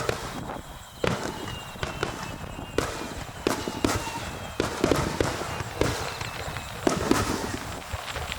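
Aerial fireworks bursting overhead in a rapid, irregular string of bangs and cracks of varying loudness, as in a star mine barrage.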